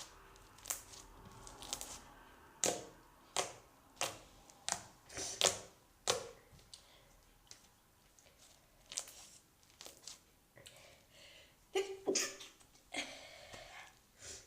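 Slime being worked and squeezed by hand, making irregular sharp clicks and pops. Near the end there is a sneeze.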